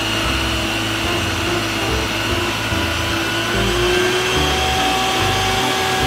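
Water cannon on an Isuzu tanker truck spraying a high-pressure jet: a steady rushing hiss with a steady motor hum running under it.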